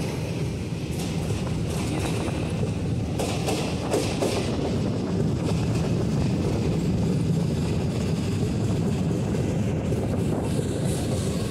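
Passenger train running along the track, heard from aboard: a steady rumble of wheels on rails, with a few brief clicks about three to four seconds in.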